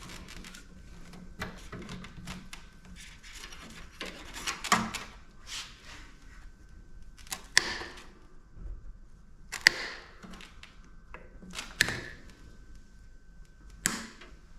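Sharp metallic clicks and knocks, about one every two seconds, from tools and metal parts being handled while stripping a PTAC air-conditioner unit.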